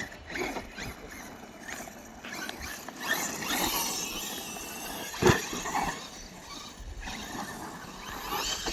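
Electric RC monster trucks on 4S batteries running over dirt, their brushless motors whining up in pitch as they speed up. A sharp thump comes a little after five seconds in.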